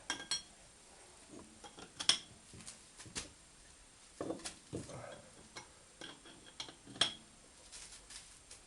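Scattered metallic clinks and clicks from a wrench turning the screw of a ball-joint puller, tightening it to press a suspension ball joint out of its seat. The loudest clinks come about two, three, four and a half and seven seconds in.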